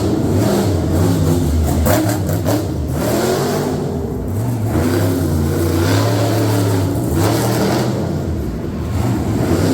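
Monster truck engine revving, its pitch rising and falling repeatedly, with a few sharp cracks about two seconds in.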